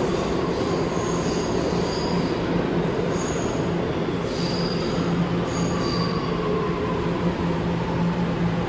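New York City Subway train running through the station, its steel wheels squealing on the rails in short high-pitched squeals over a steady rumble, with a slowly falling whine.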